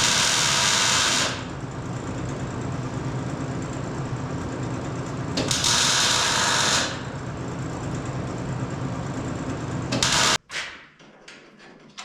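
Motor-driven power tool running steadily, with two loud hissing surges of about a second and a half each, then shutting off suddenly about ten seconds in, followed by a few light clicks.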